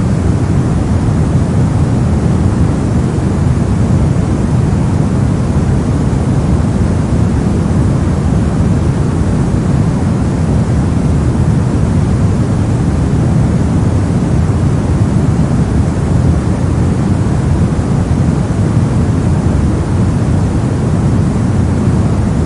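Steady soft noise, deep rather than hissy, weighted to the low end, with no changes or events.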